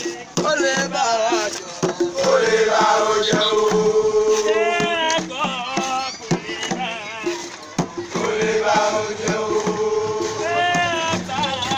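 Male voices singing a chant-like song in long held, wavering phrases, with percussion clicking along underneath.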